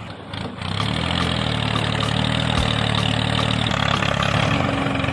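Mini tractor engine running steadily at idle, dipping briefly at the start and picking back up within the first second.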